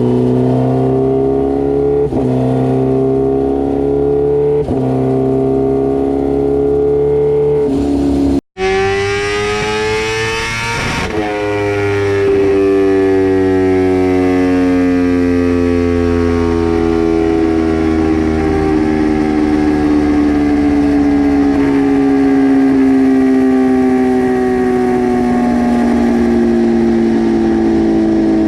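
Kawasaki Ninja H2R's supercharged inline-four running hard on a dyno, climbing in pitch in steps with a short dip at each upshift. The sound cuts out for an instant about eight seconds in, the pitch climbs steeply again, and then it falls slowly and steadily as the engine winds down.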